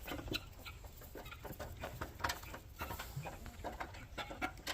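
Chickens clucking faintly, short scattered calls.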